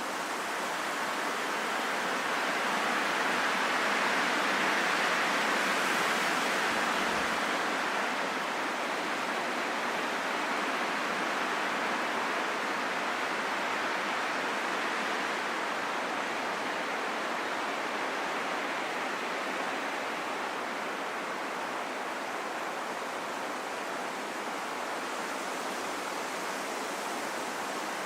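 Steady rain in a forest: an even hiss that swells slightly a few seconds in, then settles.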